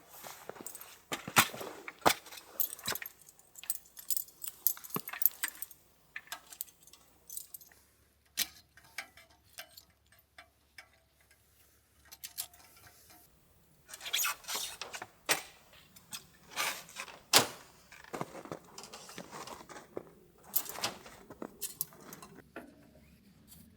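Small hard objects clinking and rattling as they are handled: sharp clicks and clatters in two long runs, with a quieter stretch of scattered clicks between.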